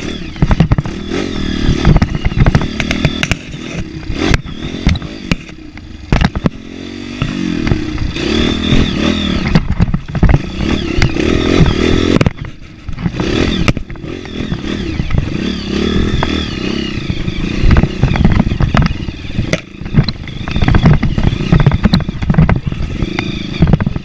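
Motorcycle engine under way on rough trail, revving up and down with the throttle and easing off briefly about halfway through, over frequent knocks and rattles from the bumpy ground.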